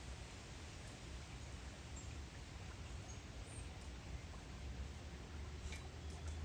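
Low steady hum with a few faint clicks near the end as small chainsaw carburetor parts are handled during reassembly.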